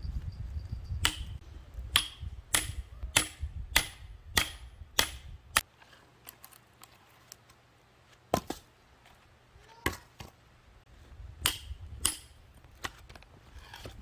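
Hatchet blows knocking into firewood: eight sharp, evenly spaced strikes in quick succession, then a pause and a few scattered knocks.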